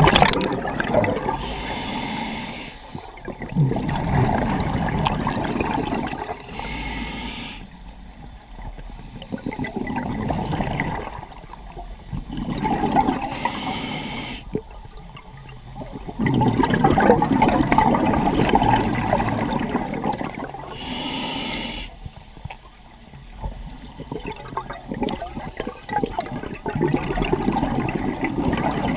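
Scuba diver breathing through a regulator underwater: four cycles of a short hissing inhale followed by a long rush of exhaled bubbles, about one breath every six to seven seconds.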